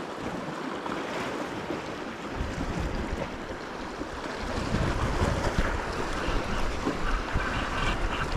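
Wind buffeting the microphone over choppy sea water sloshing around a kayak, the low wind rumble growing stronger a couple of seconds in.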